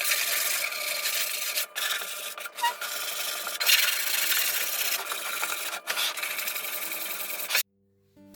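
Wood being sanded: a continuous scratchy rubbing with a few brief pauses, which stops suddenly near the end.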